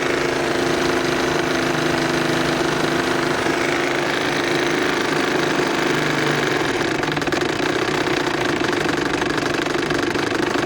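Bassett-Lowke live steam engine in a model boat running fast at full throttle on about 25–30 psi of steam, with a rapid, steady mechanical beat.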